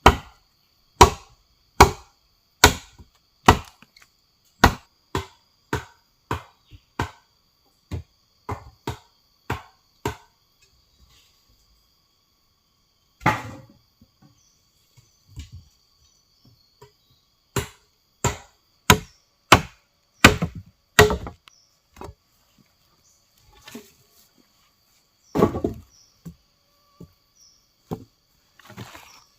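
Wood being chopped with a blade in a run of sharp strokes, a little more than one a second for about ten seconds, then after a pause a second quick run of strokes and a last heavier blow near the end.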